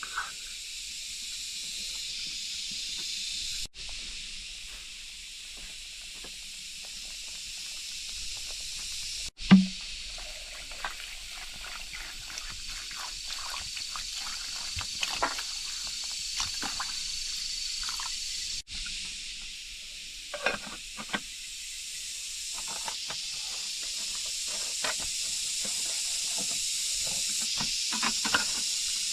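Steady hiss of rain falling in forest, with scattered small clicks and knocks of handling and one loud thump about a third of the way in.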